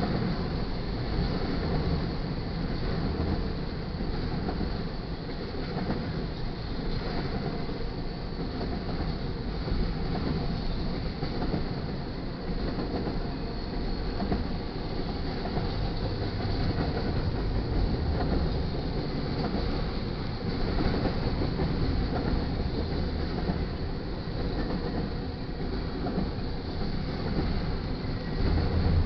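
Loaded double-stack container well cars rolling past close by at speed: a steady rumble of steel wheels on rail, with faint repeated clacks.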